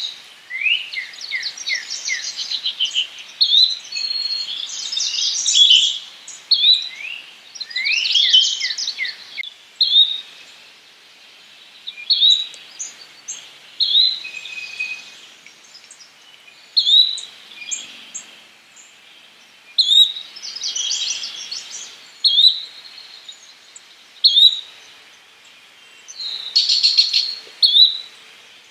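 Yellow-bellied flycatcher calling: short, rising whistled notes repeated about every one to two seconds. Several bursts of rapid, higher chirping come in between, a few seconds at a time.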